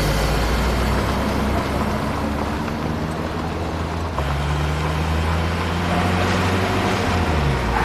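Deep, steady engine rumble, with a change in its note about halfway through.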